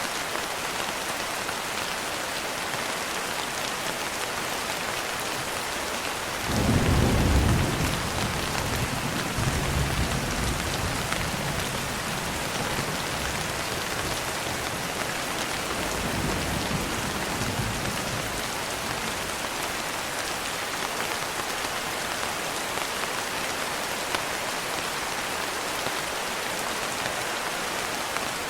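Steady rain falling with rolling thunder. A low rumble comes in about six seconds in and fades over several seconds, and a softer rumble follows a little past the middle.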